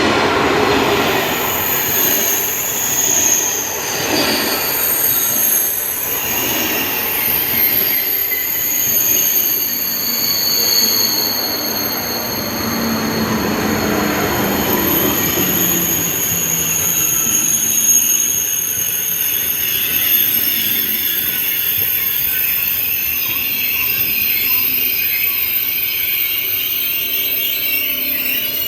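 A TGV made up of two coupled trainsets pulling in along the platform and braking, its brakes and wheels squealing in several long high tones over the running noise. The squeals waver and glide just before the end.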